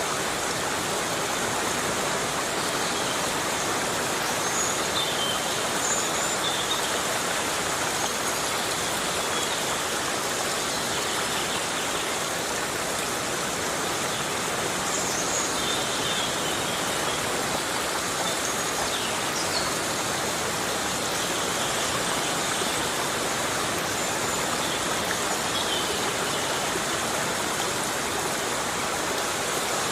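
Heavy rain falling on forest foliage: a steady, even hiss. Faint short high chirps sound now and then.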